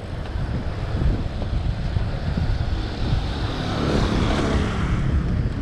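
Wind buffeting the microphone of a camera carried on a moving bicycle, a dense low rumble mixed with road noise, with a hiss swelling around the middle.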